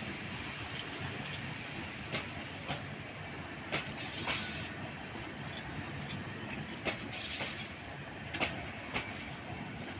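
Metre-gauge intercity passenger coaches rolling past, wheels clicking over the rail joints at irregular intervals over a steady rumble. Two short, high-pitched wheel squeals, about four and seven seconds in, are the loudest sounds.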